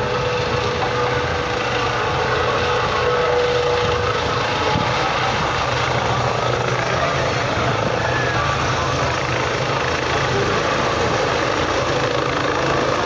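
Helicopter engine and rotor running steadily on the ground while the engine warms up, a constant low hum with a steady whine over it.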